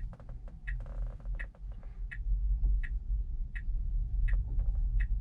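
Tesla's turn-signal indicator ticking at an even pace, about one tick every three-quarters of a second, over a low cabin rumble.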